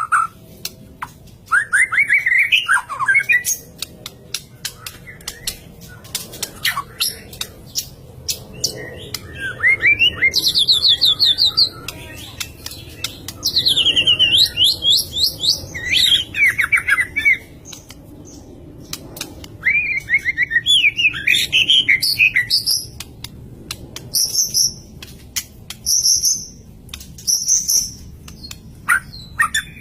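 White-rumped shama singing a loud, varied song: phrases of fast repeated whistled and chattering notes, some sweeping down and up, separated by short pauses, with sharp clicks between the phrases.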